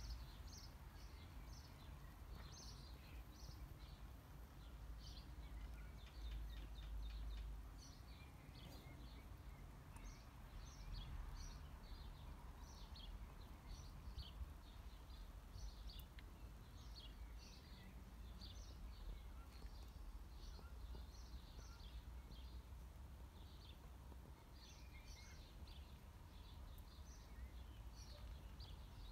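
Faint outdoor ambience: small birds chirping in many short, quick calls, over a low steady rumble.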